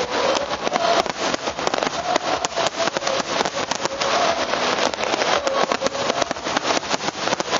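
Fireworks crackling: a dense, continuous stream of many small overlapping pops.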